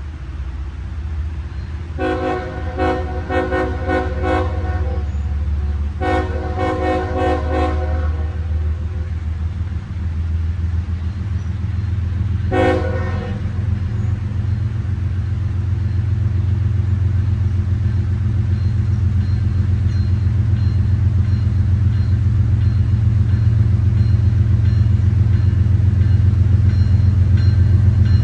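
Diesel freight locomotive blowing its horn: two long blasts and then a short one, the start of a grade-crossing signal, over the steady low rumble of its engine, which grows louder as the train approaches.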